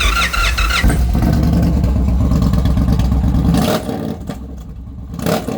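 2021 Indian Challenger's PowerPlus V-twin through an aftermarket Sawicki exhaust, coming in loud and revved hard for about three and a half seconds. It then drops back toward idle and gets one more short blip of the throttle near the end.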